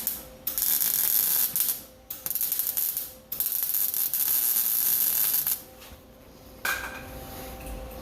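Electric welding on a sheet-steel truck floor pan: three bursts of arc noise of one to two seconds each, the third the longest, then a fainter short burst near the end.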